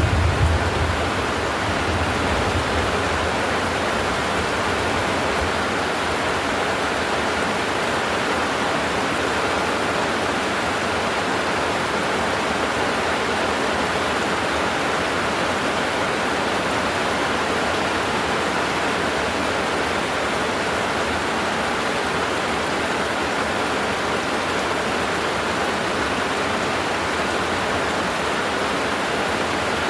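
Heavy rain pouring down in a steady, unbroken hiss. A low rumble fades out in the first second.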